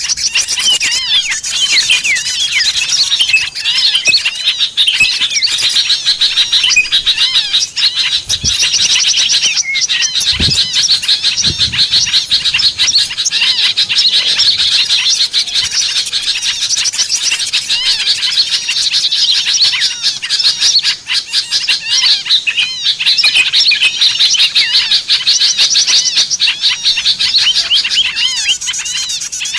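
A dense, noisy chorus of many small songbirds chirping and twittering rapidly and without a break: a bird-lure recording meant to draw small wild birds down.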